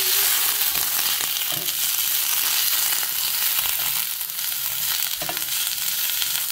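Asparagus frying in oil in a stainless steel pan, sizzling steadily as a slotted spatula stirs it.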